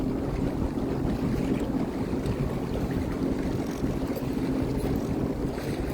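Sea-Doo Fish Pro personal watercraft running steadily underway, a constant low engine hum, with wind buffeting the microphone.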